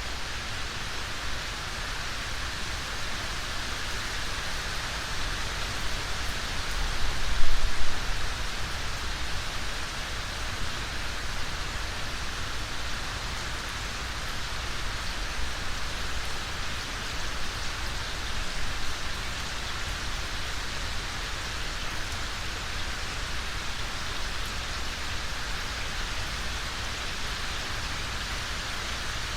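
Steady rain falling, an even hiss of many drops, with a brief low rumble swelling about seven seconds in.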